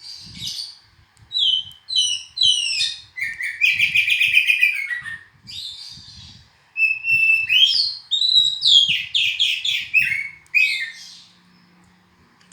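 Oriental magpie-robin (kacer) singing a varied song of whistled phrases and rapid trills, stopping about a second before the end.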